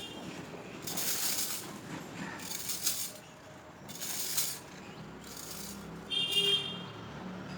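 A leaf rake dragging dry leaves over grass in repeated scratchy strokes, about one every second and a half.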